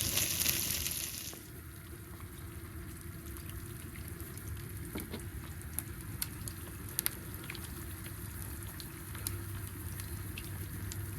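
Mild Italian sausages and eggs sizzling in a frying pan. The hiss is loud at first and drops abruptly to a quieter sizzle about a second and a half in, with scattered sharp pops.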